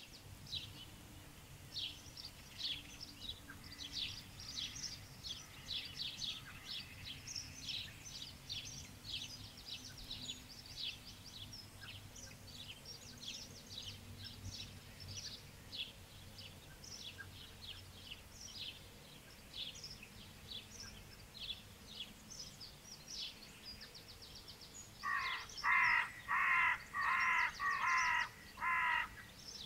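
Garden birds chirping and twittering throughout, then five loud, harsh calls in a row near the end.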